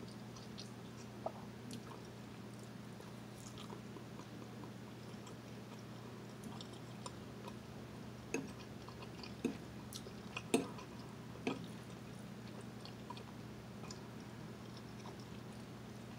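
Faint chewing and mouth sounds of a person eating, with scattered sharp clicks of a fork against a plate, a few louder ones about halfway through. A steady low hum runs underneath.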